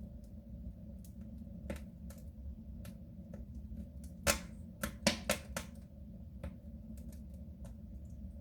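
Wood fire crackling in a soapstone stove: scattered sharp pops and snaps over a low steady rumble, with a quick run of louder cracks about halfway through.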